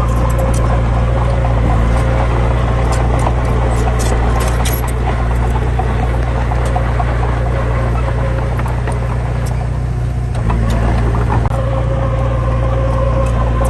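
Heavy diesel engine running steadily at low revs, with scattered short metallic clicks and rattles over the first few seconds. The engine note shifts about ten and a half seconds in, followed by a single knock.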